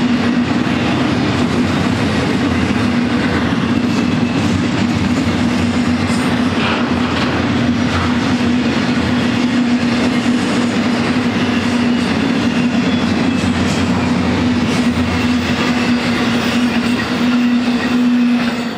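Double-stack intermodal freight train rolling past at speed: the steady rumble and rush of its container well cars, with the wheels clattering over the rail and a steady hum underneath.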